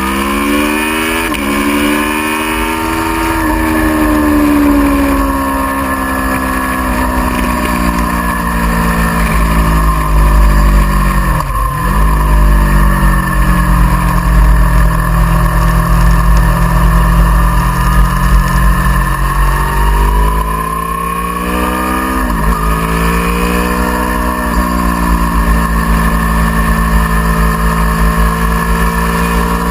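Aprilia Tuono V4R's V4 engine under hard riding, revs climbing and falling through gear changes, with a sharp drop in pitch and recovery about 11 seconds in and again about 22 seconds in. Heavy wind rumble on the microphone underlies it.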